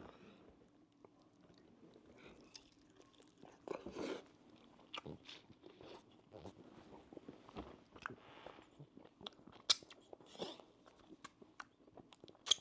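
A person chewing and biting food close to the microphone: irregular wet mouth clicks and smacks, louder about four seconds in and with sharp clicks near the end.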